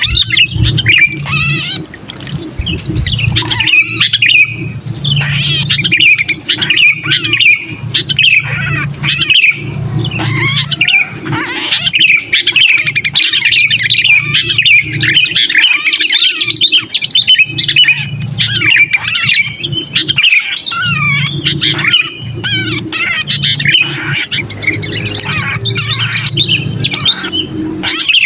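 Sooty-headed bulbuls giving harsh, rapid, squawking distress chatter, the 'pinched' call of a trapped bulbul used as a lure to bring other bulbuls down. The calls come in dense runs over a low hum.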